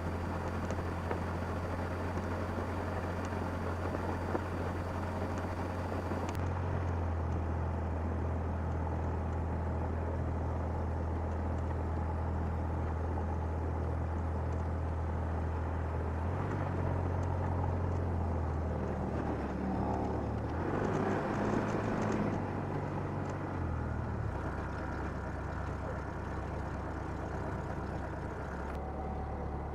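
Cessna 172N's four-cylinder Lycoming piston engine running at low taxi power, a steady low drone whose pitch steps up and down a few times as the throttle is adjusted.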